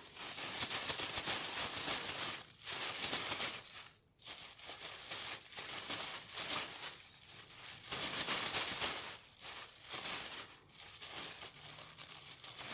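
Crinkling, crackling rustle in irregular bursts with a short pause about four seconds in: a lorikeet working a crinkly object with its beak and feet.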